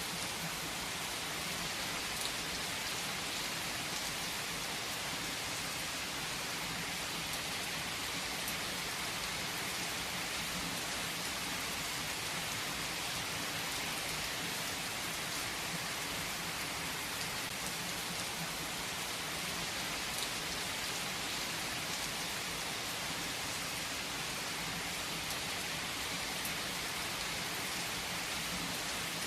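Steady rain falling on a surface, an even hiss with a few faint individual drop ticks now and then.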